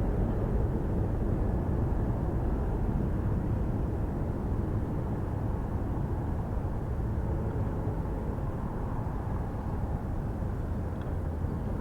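Jet airliner engines: a steady low rumble that slowly fades.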